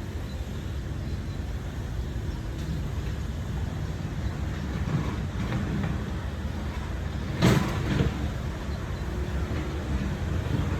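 Steady low rumble of city street traffic, with a sharp thump about two-thirds of the way through and a smaller one just after.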